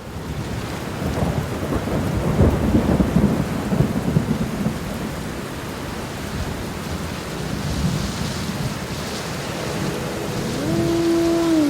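Rain falling steadily, with a low rumble through the first few seconds. Near the end a tune begins, one melodic line sliding between notes.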